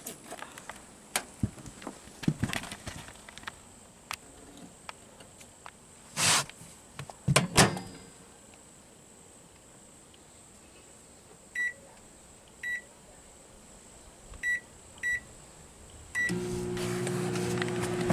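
Microwave oven being set and started: a few handling knocks and two short noisy bursts, then five short keypad beeps, and about two seconds before the end the oven starts running with a steady hum.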